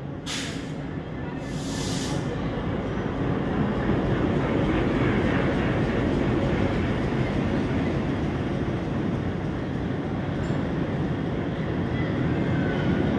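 Diesel locomotive hauling a passenger train slowly into the station past the platform: its engine running and the coaches' wheels rolling over the rails in a steady rumble. Two short hisses sound near the start.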